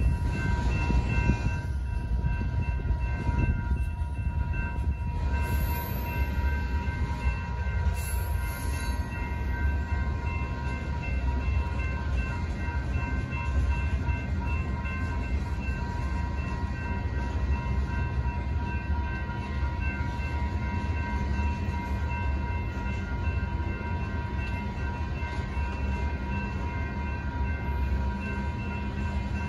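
Freight cars of a BNSF manifest train rolling steadily past with a continuous low rumble, while the grade-crossing warning bells ring without a break.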